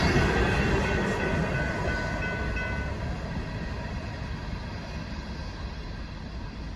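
A freight train's last hopper cars rolling past on the rails and fading into the distance as the train moves away. A faint high squeal, likely from the wheels, is heard for the first three seconds.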